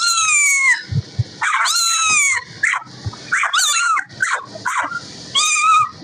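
Kittens mewing: a run of high-pitched calls, most gliding down in pitch, some short and some drawn out for over half a second.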